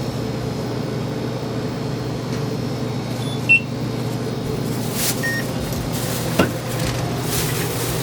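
Steady hum of a car cabin on the move. A short high beep comes about three and a half seconds in, and a sharp click a few seconds later.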